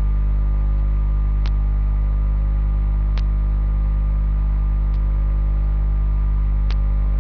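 Loud steady electrical mains hum at about 50 Hz with its overtones, picked up in the recording, with a faint short click repeating evenly about every second and three quarters.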